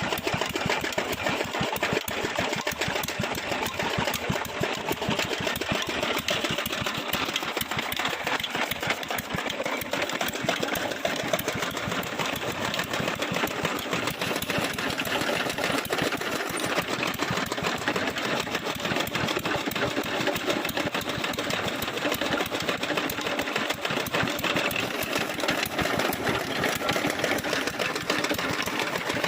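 Old stationary engine running steadily with a rapid, even chugging, belt-driving the pulley of a toka fodder chaff cutter.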